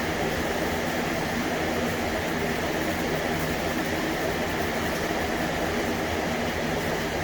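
Steady mechanical running noise with a low hum, unbroken throughout.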